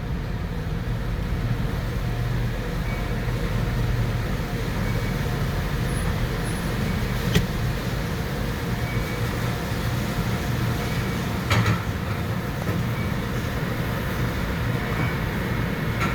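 Dodge Charger idling with a steady low hum. There is a sharp click about seven seconds in and a short noise about eleven and a half seconds in.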